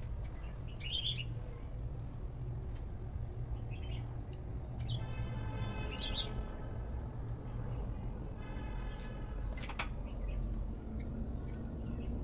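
Birds chirping now and then over a low steady rumble, with two longer pitched sounds about five and eight and a half seconds in.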